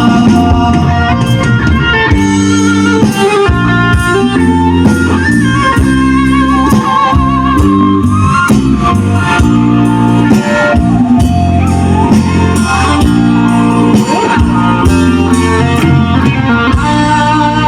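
Loud Khmer romvong dance music: an instrumental passage with a wavering melody line over a steady bass and regular percussion.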